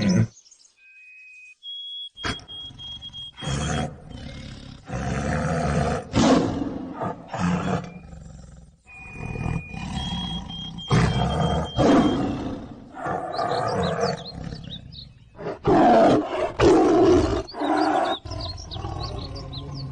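Tiger roaring again and again, a series of separate roars each a second or two long, broken off abruptly between them. A high, thin steady tone sounds briefly twice, near the start and about halfway through.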